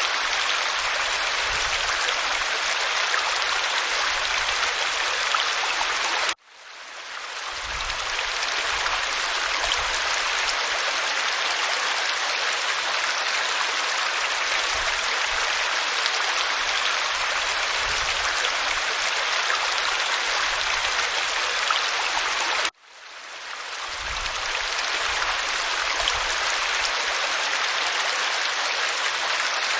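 Waterfall splashing onto rock in a steady, even rush. The sound cuts out abruptly twice, about six seconds in and again about sixteen seconds later, each time swelling back to full level within a second or two.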